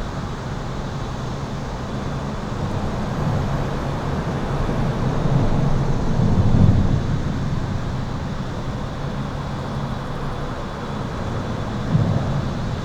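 Highway traffic heard from under an overpass: a continuous roar of tyres and engines with a low rumble that swells to its loudest about six and a half seconds in as vehicles pass. A short thump comes near the end, over a faint steady high buzz.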